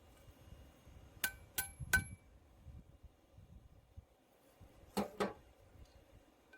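Hammer striking steel on an anvil-shaped object: three ringing metallic blows in quick succession about a second in, then two more about five seconds in.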